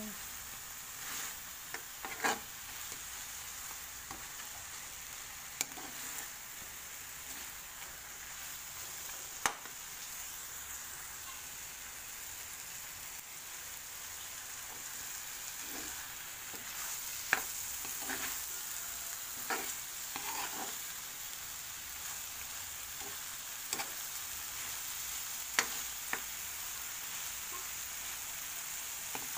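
Shrimp, pineapple and onions sizzling in a wok with a steady hiss while a spatula stirs them, knocking sharply against the pan a few times.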